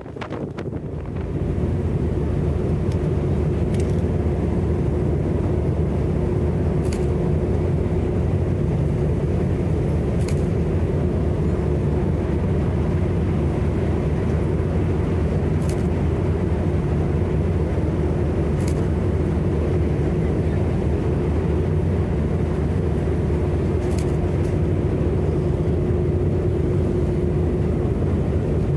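Engines of the Aurora sightseeing icebreaker running steadily: a low, even drone with a constant hum, swelling in about a second in.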